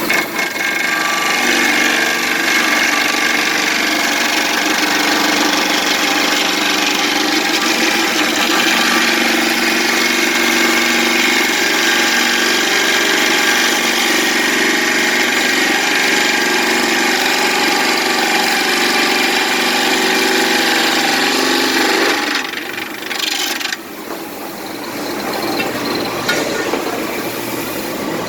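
Large 600 mm carbide-tipped aluminium-cutting saw blade on a handheld cutting machine, cutting through a solid aluminium billet with a loud, steady ringing screech. About 22 seconds in the cut sound drops off sharply, and a quieter running sound follows. The blade turns at only 1460 rpm, which the uploader calls far too slow for a carbide blade on aluminium, and its long pulley shaft and undersized flanges make blade wobble unavoidable.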